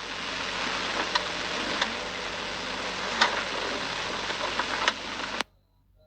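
Steady hiss of road or weather noise from a dashcam recording, with a few sharp clicks, cutting off abruptly about five and a half seconds in.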